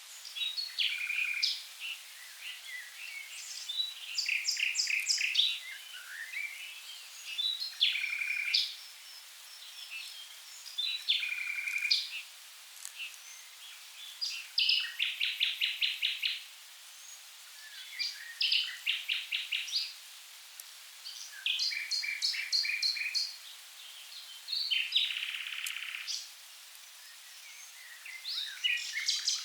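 Common nightingale singing about nine varied phrases, each a second or two long, made of rapid runs of repeated notes and whistles, with short pauses between them.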